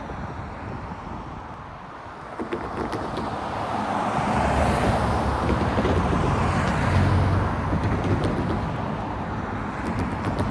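A vehicle passing by: its noise swells over a few seconds to a peak in the middle and then eases off, with a low engine hum underneath.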